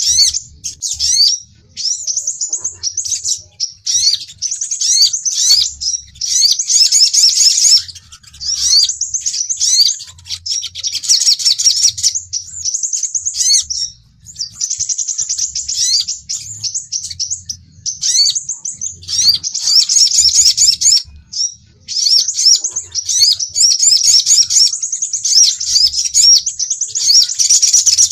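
Recorded sunbird lure calls, sepah raja (crimson sunbird) and sogon, in fighting mode: rapid, thin, very high chirps and short rising whistles in bursts of one to three seconds with brief pauses between.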